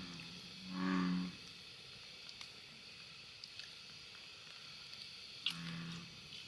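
American bullfrog calling: a deep croak about a second in and another near the end, each about half a second long.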